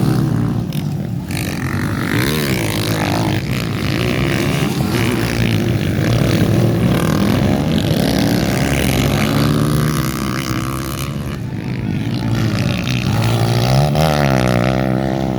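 Racing motorcycle engines revving, their pitch rising and falling over and over, with a stronger wavering run of revs near the end.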